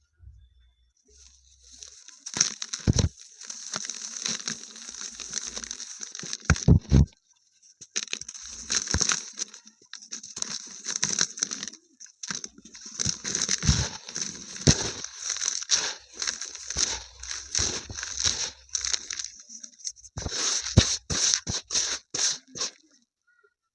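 A dried paste piece shaped like a diya is crushed and crumbled, with dense crisp crackling and crunching in bursts broken by a few short pauses. Several sharper, louder cracks stand out.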